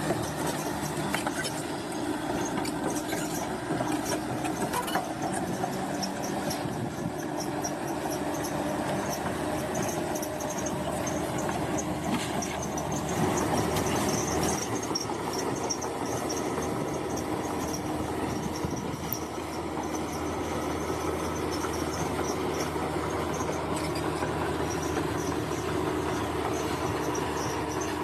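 Bulldozer's diesel engine running steadily under load, with its steel tracks clanking and squealing as it works.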